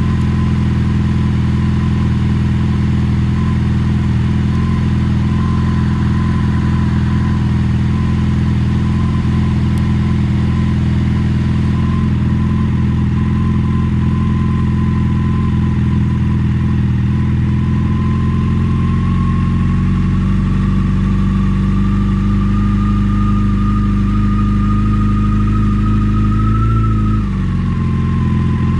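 Motorcycle engine running steadily at low speed. Its note rises slowly through the second half, then drops sharply near the end.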